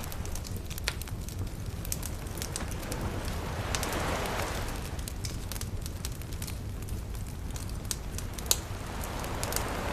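Wood fire crackling, with frequent sharp pops and snaps, one louder snap near the end, over a steady low rumble. Gentle waves wash in, swelling and fading about four seconds in and building again near the end.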